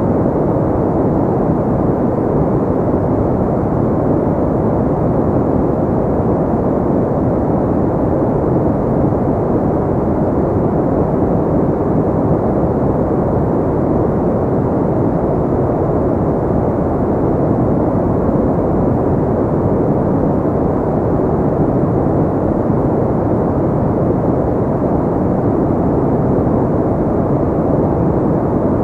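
Steady, unchanging noise track for sleep or relaxation, deep and muffled, with its highs cut off, close to brown noise.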